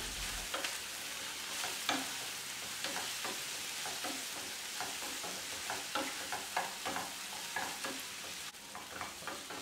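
Paneer cubes sizzling in hot oil in a nonstick frying pan, stirred and turned with a wooden spatula that scrapes and taps against the pan in many small irregular clicks over a steady hiss.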